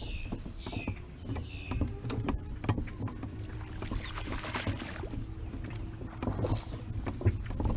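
Sounds aboard a small fishing boat on the water: a low rumble, scattered knocks and clatter, and a steady low hum that comes in about a second and a half in.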